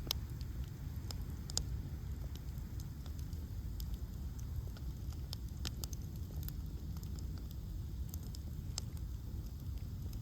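Bonfire of frozen ash logs burning, with irregular sharp crackles and pops over a steady low rumble; the sharpest pops come right at the start and about a second and a half in.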